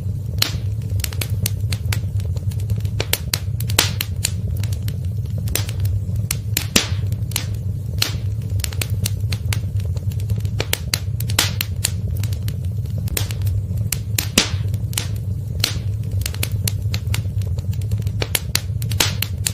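Wood fire crackling: irregular sharp snaps and pops, several a second with a few louder ones, over a steady low rumble of the burning fire.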